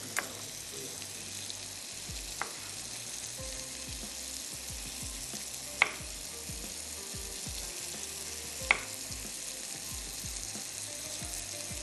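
Boneless chicken sizzling steadily on a hot grill pan, with a few short sharp clinks; the two loudest come about six and nine seconds in.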